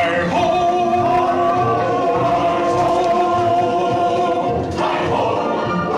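Music with a group of voices singing together, sustained notes held over a steady accompaniment.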